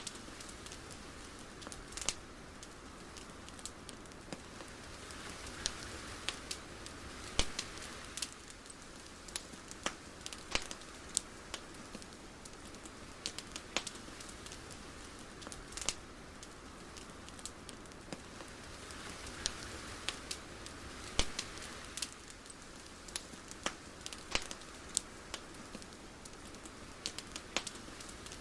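Irregular crackling: sharp clicks and pops scattered unevenly over a soft hiss that swells gently twice.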